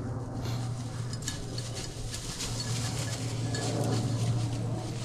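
Rustling and light metallic clinking and jingling, many small irregular ticks over a steady low rumble, from hunters moving through the field cover behind a working bird dog.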